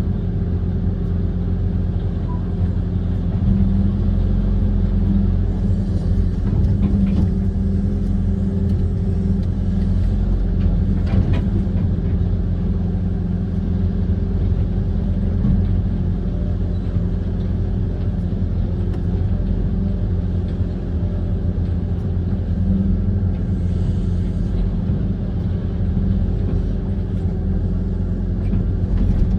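Kobelco SK130 amphibious excavator's diesel engine running steadily with a low rumble, its note lifting slightly now and then.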